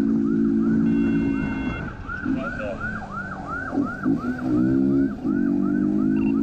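Police motorcycle siren yelping rapidly, about three rising-and-falling cycles a second, over a motorcycle engine running at steady speed. The engine drops away for a couple of seconds in the middle, then revs back up about five seconds in.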